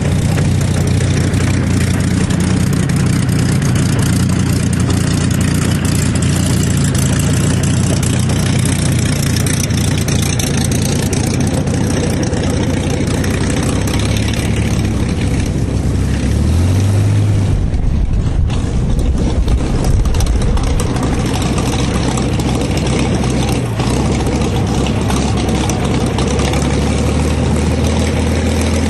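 Hawker Hurricane IV's Rolls-Royce Merlin V12 running steadily at low power, its pitch briefly rising about seventeen seconds in before settling again.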